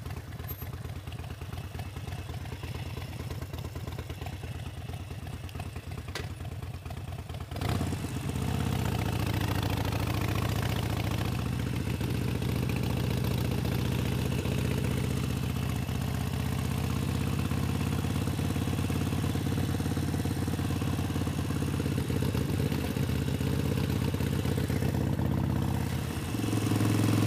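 Harley-Davidson Sportster 72's 1200 cc air-cooled V-twin running low and steady. About seven and a half seconds in it gets louder and its pitch rises as the bike pulls away, then it runs on steadily under way.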